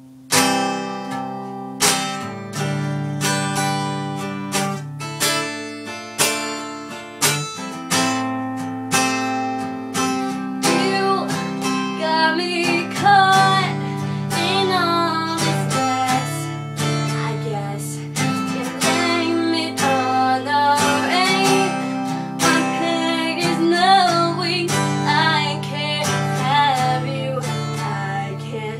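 Acoustic guitar played as a song intro, with a steady run of picked and strummed chords that starts abruptly at the outset. From about a third of the way in, a wordless voice hums or vocalises along over the guitar.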